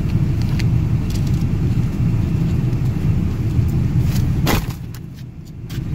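Steady low rumble of a car driving, with a few faint ticks and a sharp click about four and a half seconds in, after which the rumble briefly drops away and then comes back.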